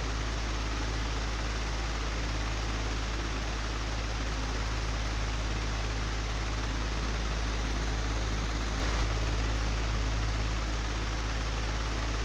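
Old, broken electric fan running steadily: a constant whooshing rush over a strong low hum, with a brief slight swell about nine seconds in.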